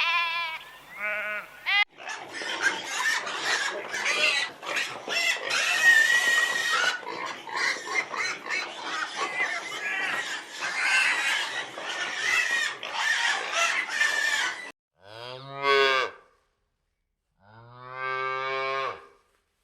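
Two short, high, wavering bleats at the start, then a long stretch of dense, noisy clamour of many overlapping animal calls, ending with two low cow moos near the end.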